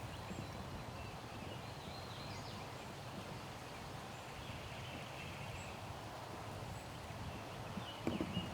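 Quiet open-air background with a few faint, distant bird calls, and a rustle of movement starting near the end.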